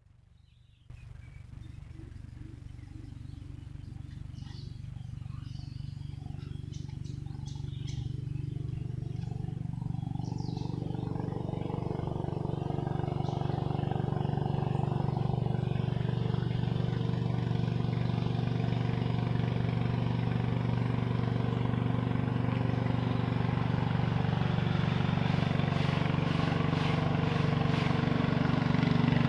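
A small engine running with a steady drone that grows gradually louder, as if coming closer.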